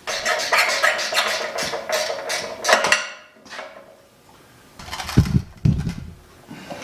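Quick run of metallic clicks and clanks for about three seconds, typical of hand tools and metal parts being worked during equipment greasing and servicing. About five seconds in come a few deep thumps.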